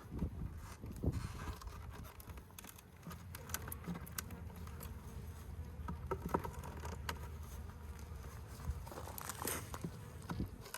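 Honey bee colony buzzing as a steady low hum, with scattered small clicks and scrapes from the comb being handled.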